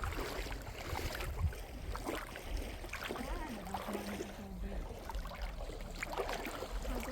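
Sea waves washing on the shore, with wind rumbling on the microphone; a faint voice is heard briefly around the middle.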